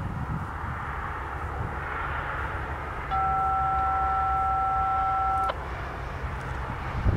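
A steady electronic two-tone beep, two pure notes held together for about two and a half seconds from about three seconds in and cut off abruptly, over a low steady rumble.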